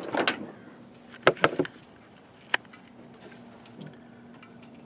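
Sharp metallic clicks and clinks of hand tools being handled during engine work: a few at the start, a quick cluster about a second and a half in, and one sharp click about two and a half seconds in, over a faint steady hum.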